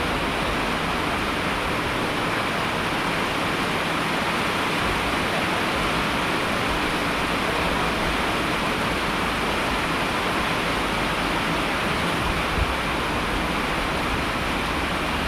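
Steady heavy rain: a dense, even hiss of falling water that holds level without breaks.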